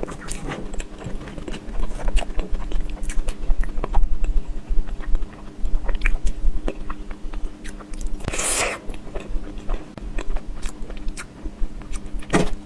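Close-miked mouth sounds of someone chewing a soft dessert: many small wet smacks and clicks, with a brief hiss a little over eight seconds in.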